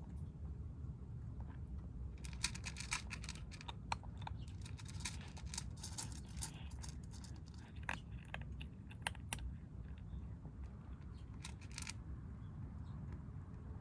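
Stray kittens chewing their food: a dense run of crisp crunching clicks starting about two seconds in and stopping near the end, over a steady low rumble.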